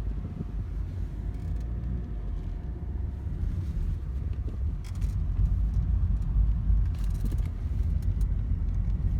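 Steady low road and engine rumble inside the cabin of a moving Volvo 940 Turbo wagon, with a few scattered sharp taps on the car.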